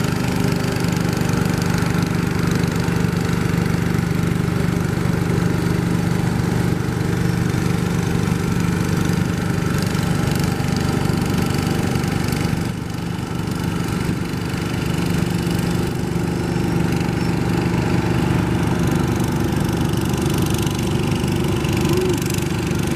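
Tractor engine running steadily at a fairly constant speed. About halfway through it eases briefly, then runs on a little higher in pitch.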